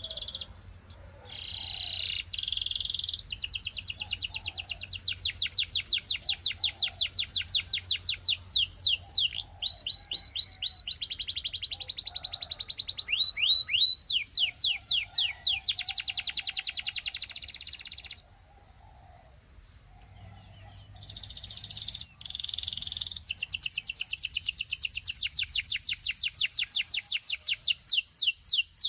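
Russian singing canary singing long, rapid trills of high repeated notes, broken by a pause of about two seconds past the middle before the song resumes.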